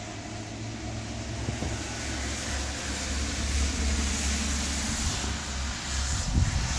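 Wind blowing across the microphone, a rushing noise with a low rumble that builds over the first few seconds and then holds.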